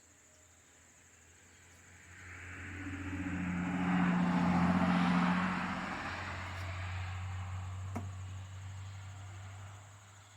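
A car passing by: engine and tyre noise swells over a couple of seconds, is loudest a few seconds in, then fades away, over a steady low hum. A single sharp click sounds near the end.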